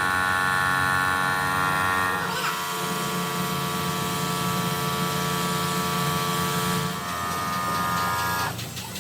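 Workshop machine motor running with a steady hum. Its tone shifts about two seconds in, and it stops shortly before the end.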